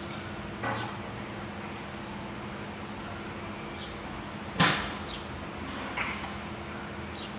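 Steady low hum with three short sharp knocks from workshop handling of tools and engine parts. The loudest knock comes a little past halfway, with lighter ones under a second in and near the end.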